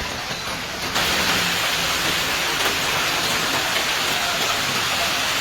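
Heavy rain pouring down, a steady dense hiss that gets louder and brighter about a second in.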